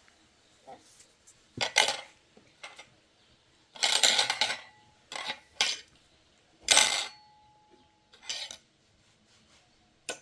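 Metal dishes and utensils being handled, clattering in several separate bursts, with a short metallic ring after two of them.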